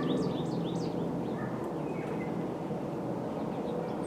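Wild birdsong: a quick run of short, high, downward-sweeping notes in the first second, then a faint single call about halfway, over a steady low background rumble.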